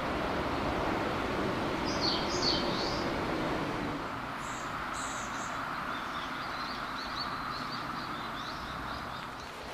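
Small birds chirping over a steady outdoor background: a few high calls in the first half, then a quick run of short chirps. A low steady hum underneath stops about four seconds in.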